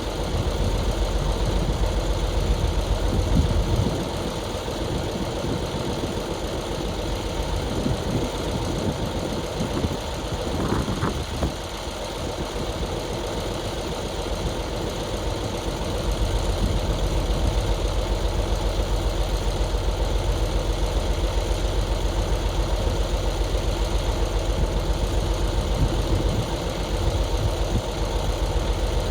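Heavy equipment's engine running steadily, easing off about four seconds in and working harder again after about sixteen seconds.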